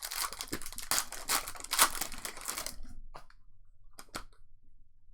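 Trading-card pack wrappers crinkling and tearing as packs are ripped open, dense for nearly three seconds. After that come a few light ticks and rustles of the cards being handled.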